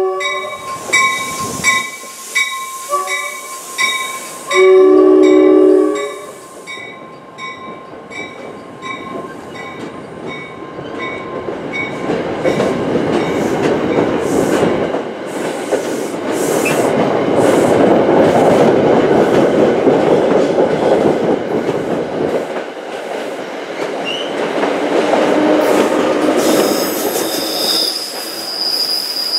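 NJ Transit train of Comet V coaches pulling out past the platform: a train horn sounds, with one long, loud blast about five seconds in. Then the rumble and clatter of the cars rolling by builds and fades, with wheels squealing near the end. A bell rings steadily, about twice a second, through the first few seconds.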